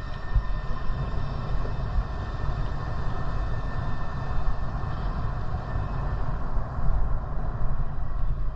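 Wind buffeting the microphone of a bicycle-mounted or rider-worn camera while riding, a steady low rumble with tyre and road noise underneath.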